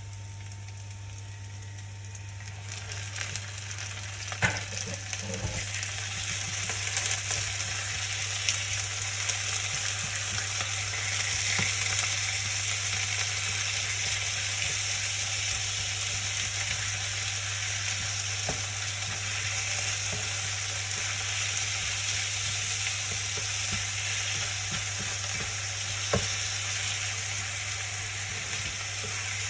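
Food sizzling in a hot pan, the sizzle growing louder over the first few seconds, with a couple of sharp knocks of a utensil against the pan and a steady low hum underneath.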